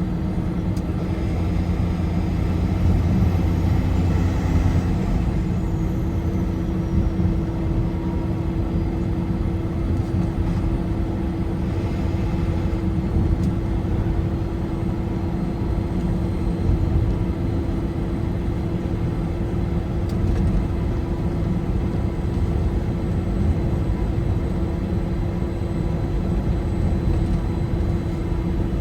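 A car driving at highway speed: steady tyre and road rumble with a constant low hum.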